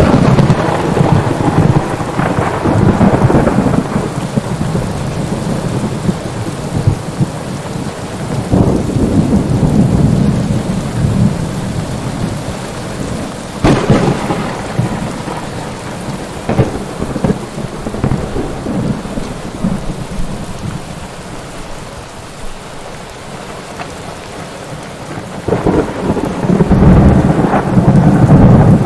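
Steady heavy rain with rolls of thunder: a long low rumble at the start, another a third of the way in, two sharp cracks around the middle, and a loud rolling peal near the end.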